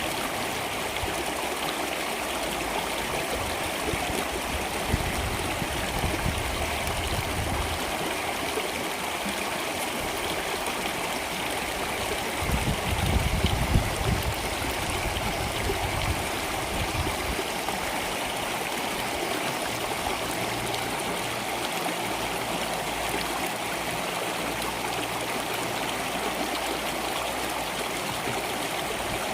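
Water flowing steadily in a stream, a continuous rushing and trickling. A deeper gurgling swells briefly about halfway through.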